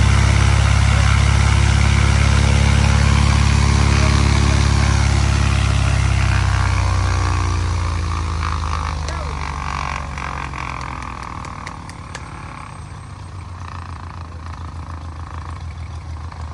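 Cessna 170's Continental O-300 six-cylinder engine running on the ground after sitting. It runs loud and steady, then from about six seconds in it drops away and settles to a quieter, lower-speed idle.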